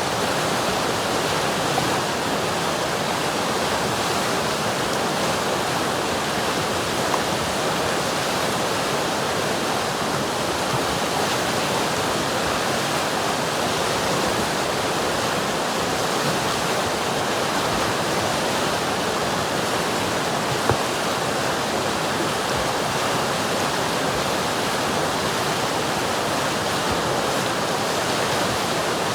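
River water rushing and splashing over rocks in a steady, unbroken wash, with an occasional faint click of water.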